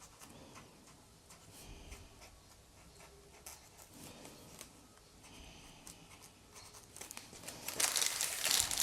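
Faint scattered handling sounds of paper and art materials on a tabletop, building to a louder rustle of paper near the end.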